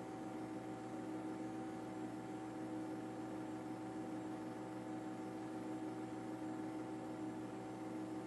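Steady machine hum with several fixed tones over a faint hiss, unchanging throughout.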